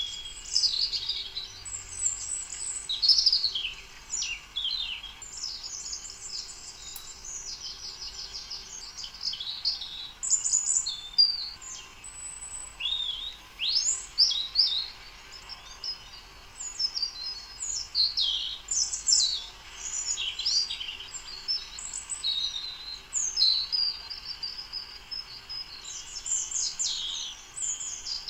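Birds singing and chirping, a dense, continuous run of quick high chirps, short rising and falling notes and trills.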